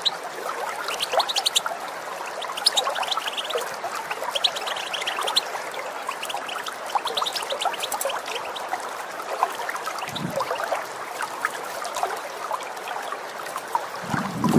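European goldfinch calling in quick runs of short, high twittering notes, densest in the first half, over the steady trickle of running water.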